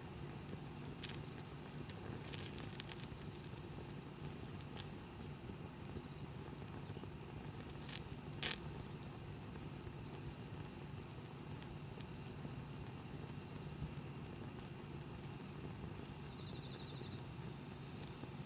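Wood campfire with a few sharp pops and crackles, the loudest about eight and a half seconds in, over steady insect chirping with a fast, even pulse.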